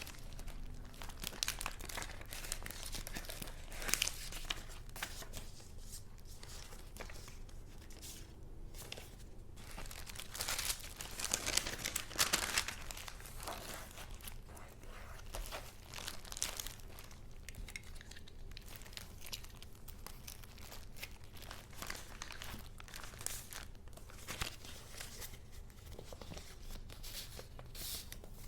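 Paper being handled: irregular rustling and crinkling of paper goods, with a louder flurry of rustles about ten to thirteen seconds in.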